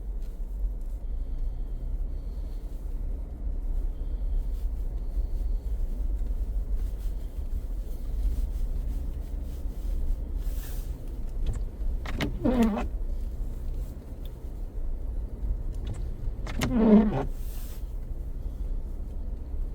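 Road noise inside a moving car: a steady low rumble, with two brief pitched sounds about twelve and seventeen seconds in.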